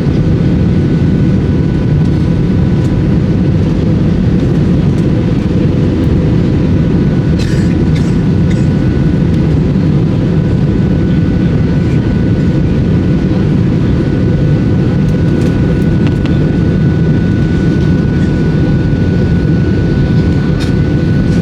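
Airbus A320 in flight, heard from inside the cabin: a steady low rumble of engines and airflow, with a few faint high steady tones over it.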